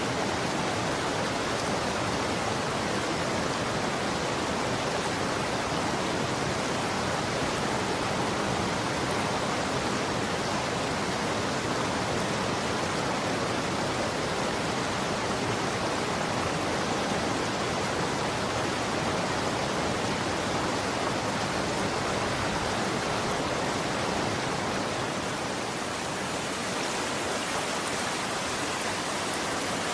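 Running water flowing steadily, an even rushing sound that dips a little in level about 25 seconds in.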